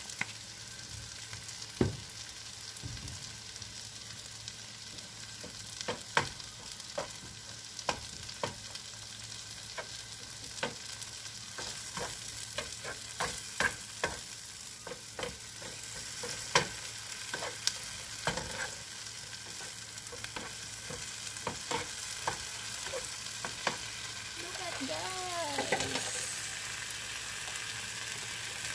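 Shrimp fry with onions, peppers and tomatoes sizzling in a frying pan, with a steady hiss. A plastic spoon stirs it, clicking and scraping against the pan many times, and there is a brief squeaky scrape near the end.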